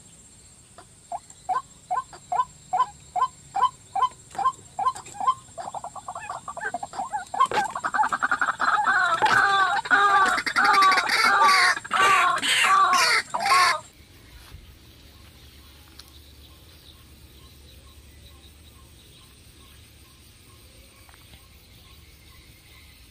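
White-breasted waterhen calling: a series of short repeated notes, about two a second, then from about halfway a louder, faster run of repeated notes that stops abruptly, leaving a quiet background.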